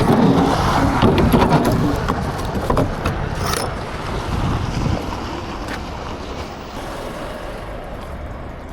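Heavy truck noise with scattered clicks and knocks, louder in the first few seconds and easing off after about five seconds.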